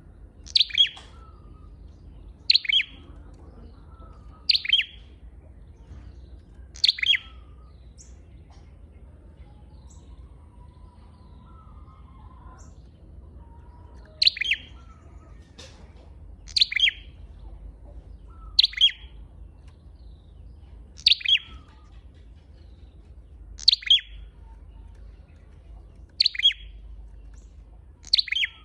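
Flowerpecker's lure call: short, sharp, high chirps, some doubled, one about every two seconds, with a pause of about six seconds partway through.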